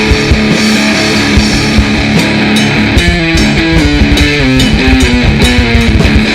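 Grindnoise band playing live: a distorted electric guitar riff whose notes step up and down, over dense drumming.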